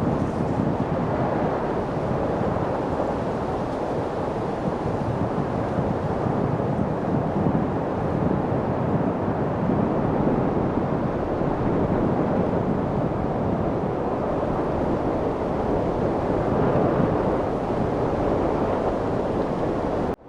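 Steady, even wind noise: a continuous rush with no gusts, breaks or other sounds in it.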